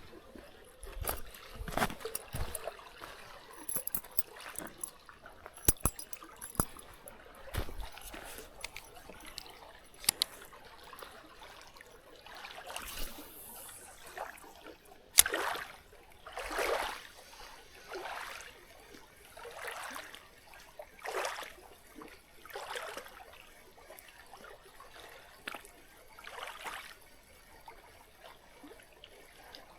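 Water trickling and splashing. Scattered knocks and clicks come first, then about halfway through a run of even swishing splashes roughly every second and a half.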